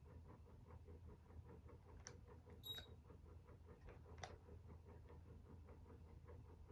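Casablanca Stealth ceiling fan running, faint: a low steady hum with an even, soft ticking about four or five times a second, and a few sharper clicks near the middle.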